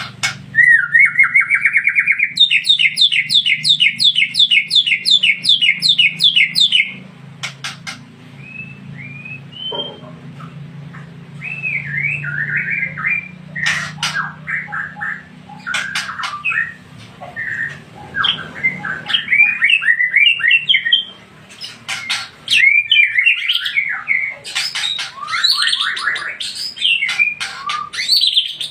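White-rumped shama (murai batu, Aceh Tangse strain) singing loudly. It opens with a long run of fast, evenly repeated rising notes lasting about seven seconds, then switches to varied whistled phrases and chattering. A steady low hum sits underneath until about two-thirds of the way in.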